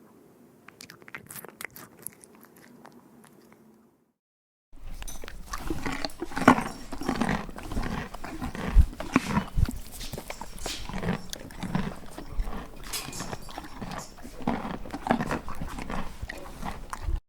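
Faint crunchy biting and chewing, then after a brief silence an animal eating noisily: irregular, louder chewing, crunching and smacking that stops abruptly near the end.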